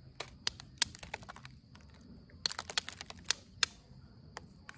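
Onondaga chert being pressure-flaked with an Ishi stick: a run of sharp, irregular clicks as small flakes pop off the edge of the point, coming closer together about halfway through.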